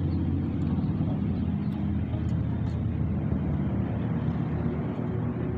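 Motorcycle engine running steadily while riding, with a rush of wind noise.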